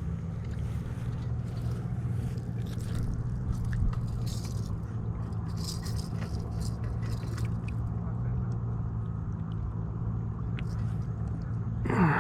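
A steady low engine-like hum runs throughout, with scattered light clicks and scrapes over it.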